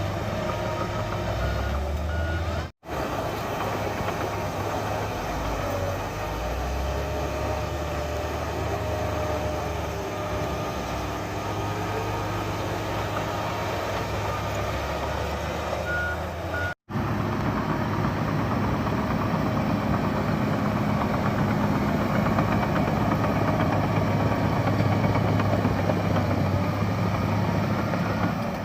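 Bulldozer's diesel engine running steadily with a heavy low rumble while it works, and a reversing alarm beeping a few times. The sound drops out abruptly twice.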